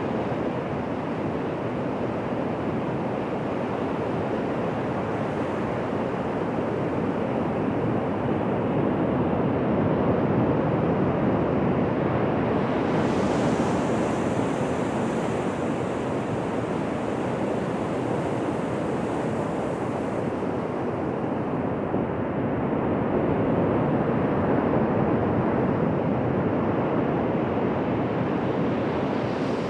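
Ocean surf washing onto a beach: a continuous rushing noise that swells twice as waves come in, with a brighter hiss of foam for several seconds near the middle.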